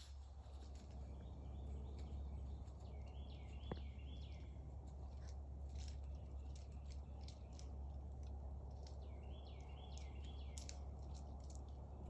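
Faint woodland sounds: a bird calls twice, each time a quick run of about five repeated notes, once about three seconds in and again near ten seconds. Under it runs a steady low rumble, with scattered light ticks.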